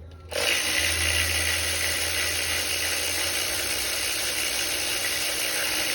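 A power tool running steadily with a loud, even whir that starts a moment in and does not let up, over a constant low hum.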